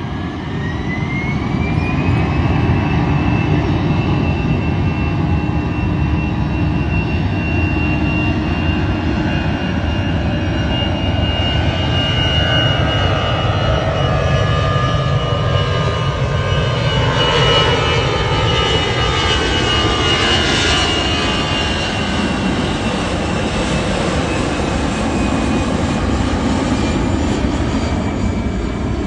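Airbus A321's jet engines spooling up: a whine rises over the first two seconds, then holds steady over a loud, continuous rumble.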